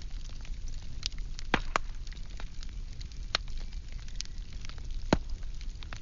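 Wood fire burning: firewood crackling and popping over a low steady rumble, with several sharp louder pops.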